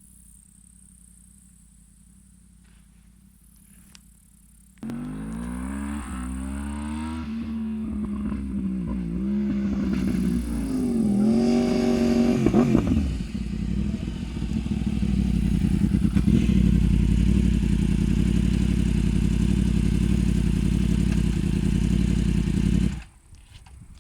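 Yamaha R1 crossplane inline-four motorcycle engine. After a few quiet seconds it comes in suddenly loud, revving with its pitch rising and falling several times, then runs loud and steady for about ten seconds before cutting off abruptly near the end.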